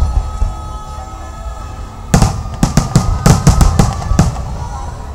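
Fireworks going off: a quieter stretch, then from about two seconds in a rapid cluster of sharp bangs lasting about two seconds, with music playing underneath.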